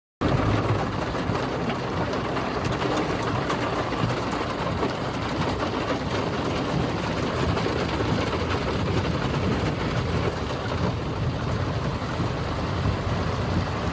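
Steady rumble of vehicle engines under a constant wash of water noise, as traffic moves along a flooded road in a heavy downpour.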